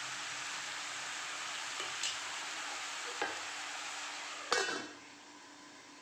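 Pieces of pork and onion sizzling as they fry in a pan, stirred with a spatula that scrapes and knocks a few times. About four and a half seconds in, a lid clanks onto the pan and the sizzling drops to a quieter, muffled hiss.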